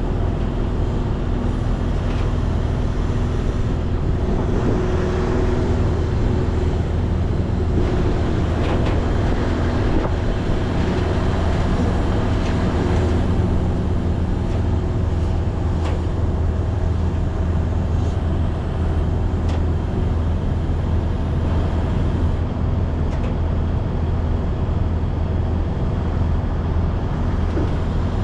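Semi-truck's diesel engine running steadily under way, with a constant low hum and road noise.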